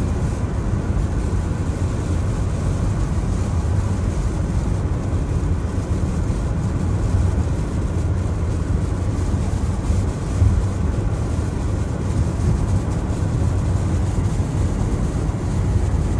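Steady low rumble of a car driving on a wet road in the rain, with tyre and road noise.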